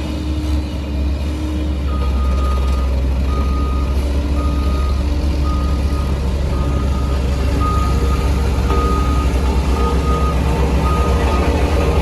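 Heavy construction machine's diesel engine running steadily, with its reversing alarm beeping about once a second from about two seconds in.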